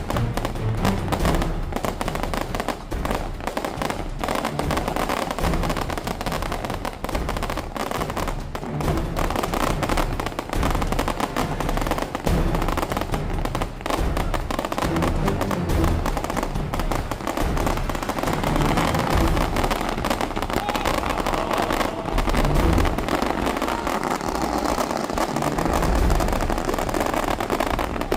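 Firecrackers going off in a rapid, continuous crackle with low thuds, over music.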